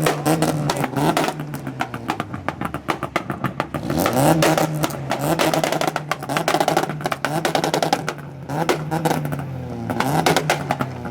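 Car engine revving hard over and over, its pitch climbing and falling every second or so, with a rapid crackle running through it.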